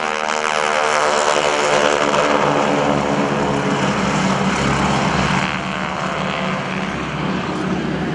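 Propeller planes with 600-horsepower Pratt & Whitney radial engines flying past with a growl, the propeller tips going supersonic. The engine pitch drops as they pass, and after about five seconds the sound turns into a rougher, quieter rumble as they depart.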